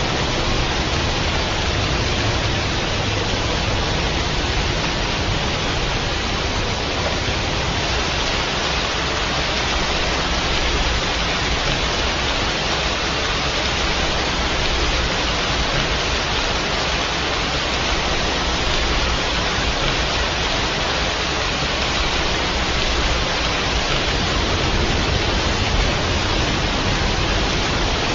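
Steady, even rain with no distinct drops or thunder standing out.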